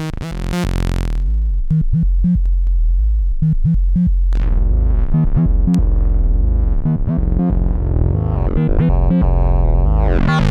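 Analog synthesizers, the Behringer Neutron with the Donner B1, play a fast sequenced run of short bass notes. The filter closes sharply about a second in, then slowly opens again, so the tone grows brighter toward the end.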